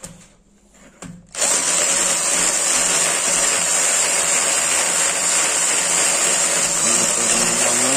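Cordless drill boring a hole into a wall, starting up about a second in and then running steadily at one speed.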